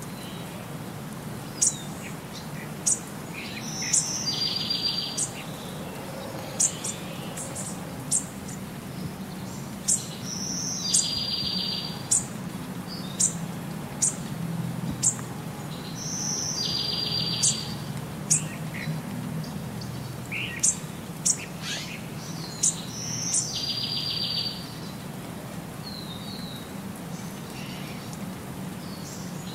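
Birds chirping in a repeating loop: short high chirps about once a second, with a longer trilled phrase returning every six or seven seconds.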